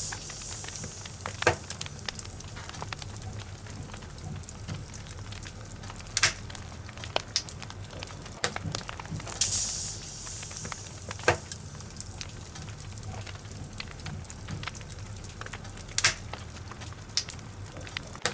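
Wood logs burning in a fireplace and crackling, with sharp pops every few seconds over a low steady rumble, and a brief hiss about ten seconds in.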